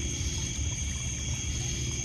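Steady chorus of crickets and other night insects, several high-pitched trills held evenly, over the low, uneven wash of small waves lapping on a pebble beach.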